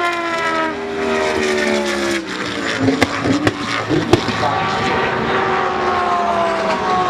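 GT3 race car engines passing at a race track. One engine's pitch falls over the first two seconds as it brakes, a few sharp cracks come between about three and four seconds in, and then another car's engine note rises and is held as it comes past.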